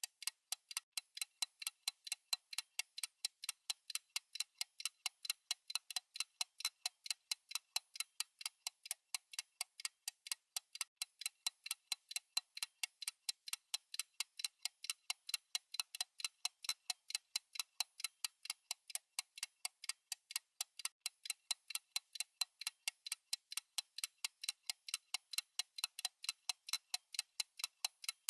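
Fast, even ticking of a countdown timer's clock tick sound effect: crisp, high clicks several times a second with no pause.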